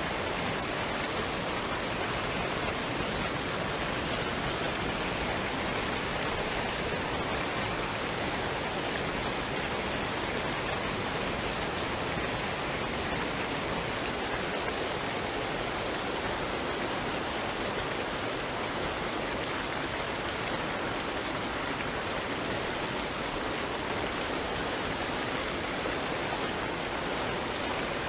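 Waterfall and stream water rushing, a steady, even roar with no changes.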